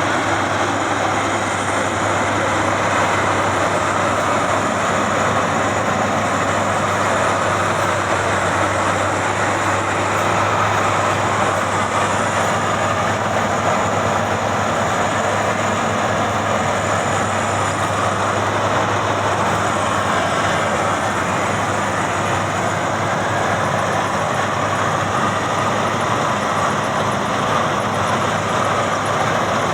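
Maxxi Bimo 102 X Top combine harvester running, a loud, steady machine drone with a constant low engine hum underneath.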